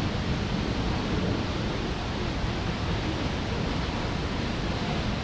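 Steady rushing noise of the Düden waterfall, an even roar with much low rumble and no pauses.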